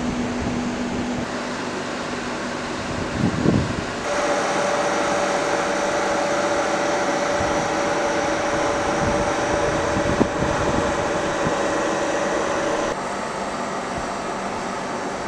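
Coaches of the Talete diagnostic train rolling past on the rails: a steady rushing noise, with a brief clatter about three seconds in. A steady humming tone joins about four seconds in and cuts off suddenly near the end.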